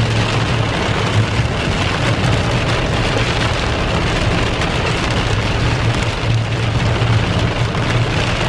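Steady heavy rain falling, with a low steady hum underneath.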